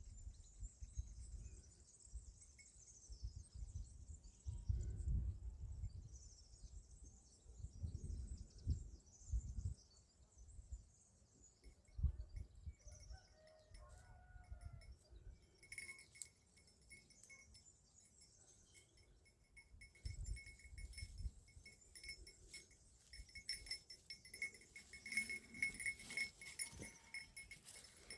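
A small bell jingling rapidly and unevenly from a little past halfway, its ringing growing denser toward the end, over low rumbles on the microphone in the first half.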